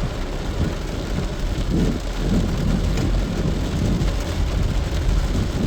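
Rain falling steadily, with a deep rumble underneath.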